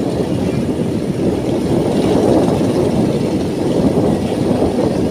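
Motorcycle being ridden, a steady loud low rumble throughout.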